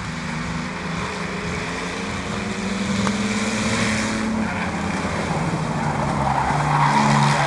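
Several speedway race trucks running at racing speed, their engines overlapping at different pitches, growing louder as the pack comes closer.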